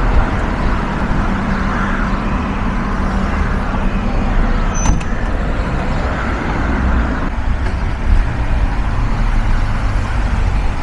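Car on the road: a steady rumble of engine and tyre noise, with a single short click about five seconds in.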